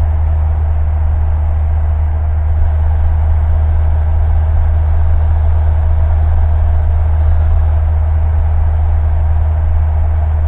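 Steady drone of a single-engine Cessna's piston engine and propeller, heard inside the cockpit, with a strong low hum that holds level throughout.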